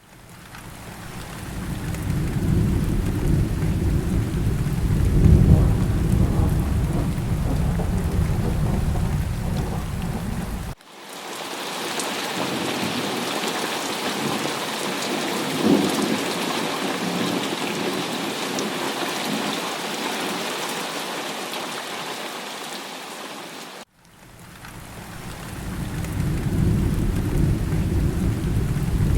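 Monsoon rain falling in a steady hiss, in three stretches joined by abrupt cuts about a third and four-fifths of the way through. The first and last stretches carry a deep low rumble under the rain; the middle stretch is a thinner, higher rain hiss.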